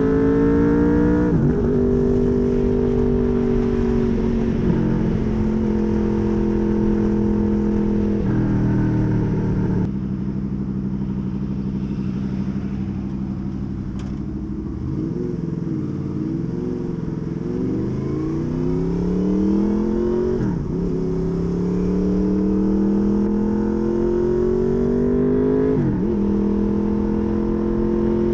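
Honda VFR800 V4 engine through a custom exhaust, pulling through the gears. The pitch climbs steadily, then drops sharply at each of several upshifts, with a wavering spell of easing off midway before it pulls up again.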